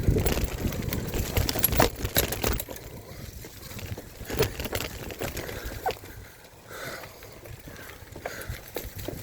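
Mountain bike riding over a rough, muddy trail: clattering knocks and clicks from the bike and its handlebar phone holder. A heavy rumble over the first three seconds then eases, leaving scattered knocks.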